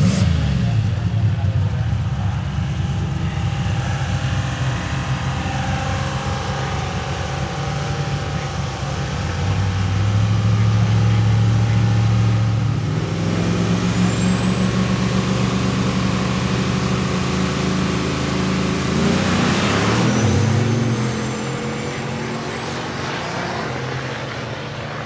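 Car engines running at length, shifting pitch as they speed up and slow down, with one rising sharply about twenty seconds in. A thin high whine sounds over the second half.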